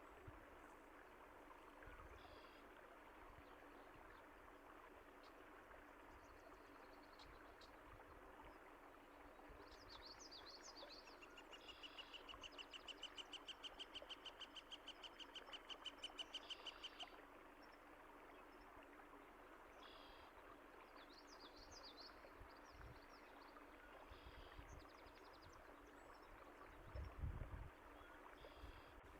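Faint steady rush of flowing water with scattered high bird chirps. About eleven seconds in, a bird gives a rapid, evenly pulsed trill lasting around six seconds, the loudest sound here, and a brief low thump comes near the end.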